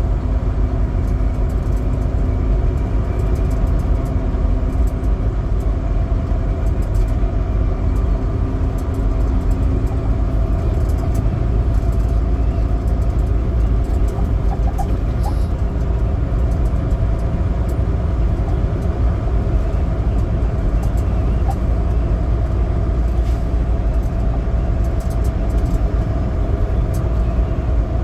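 Semi truck's diesel engine and road noise while driving: a steady, heavy low rumble with droning engine tones, one of which fades out about ten seconds in.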